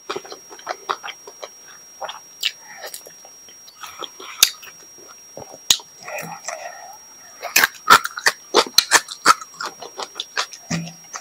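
Close-miked mouth sounds of a person eating: chewing, lip smacks and wet clicks in quick irregular strings, thickest in the second half.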